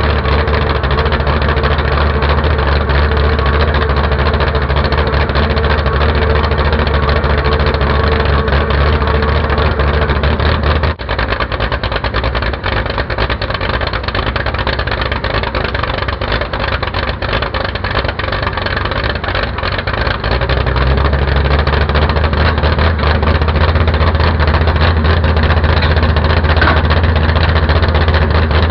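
Tractor engine running loud and steady. About 11 seconds in it briefly drops, then runs with less low rumble, and the deep rumble comes back near the 20-second mark.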